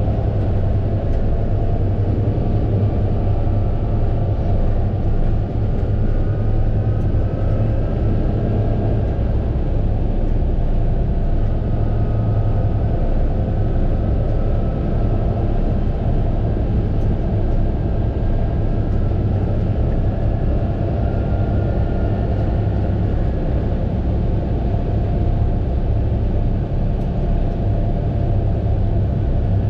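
Fendt 936 Vario tractor's six-cylinder diesel engine running steadily under load, with a deep drone and a faint high whine that drifts slightly up and down in pitch.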